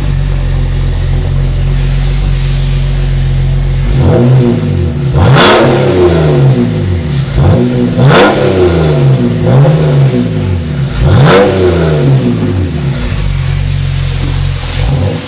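2013 BMW 128i's straight-six running through a custom 3-inch exhaust with the resonators deleted and a Flowmaster 10 Series muffler. It idles steadily for about four seconds, then is revved again and again: three big revs rise sharply in pitch and fall back, with smaller blips in between.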